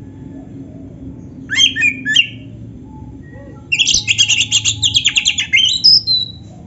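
Oriental magpie-robin singing: a short burst of loud whistled notes, then after a pause a fast run of repeated notes, about ten a second, ending in a falling whistle.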